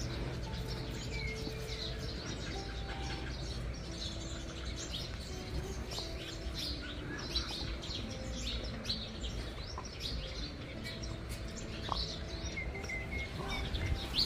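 Small birds chirping in short, scattered calls, over a faint steady low hum.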